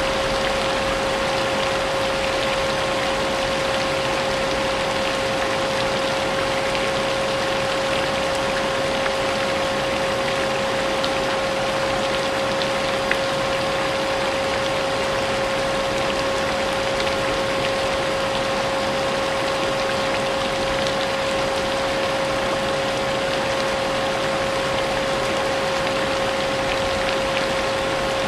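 Steady rain mixed with a vacuum cleaner running continuously, its motor whine holding one pitch throughout.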